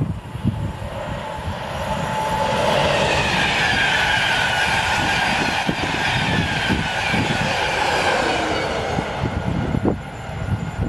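InterCity 225 electric express (Class 91 locomotive and Mk4 coaches) passing at speed: a rush of wheels on rail and air that builds, holds loud through the middle and eases near the end, with a high whine that falls in pitch as the train goes by. Wind buffets the microphone throughout.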